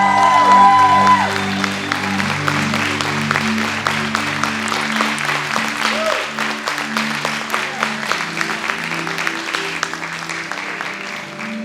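Congregation applauding at the close of a worship song while the band keeps playing soft sustained chords; a singer's last sung notes fade out about a second in.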